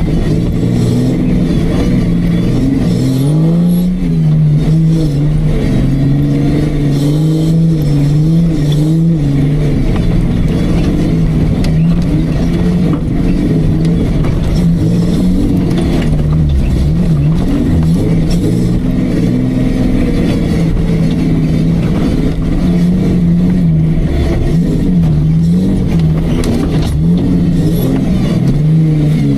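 Off-road Jeep's engine running under load, its revs rising and falling again and again as the vehicle works through rough terrain.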